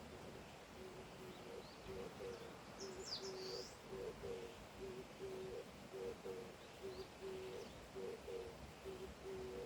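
A bird calling in a long run of short, low notes, a few a second, stepping between two or three pitches, with a brief high call from another bird about three seconds in.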